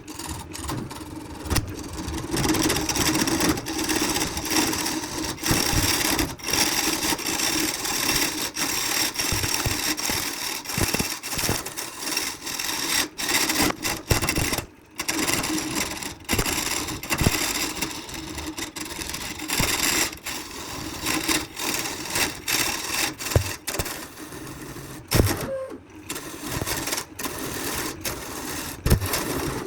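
A woodworking power tool running with a steady hum while wood is cut or abraded, in short segments that start and stop abruptly many times.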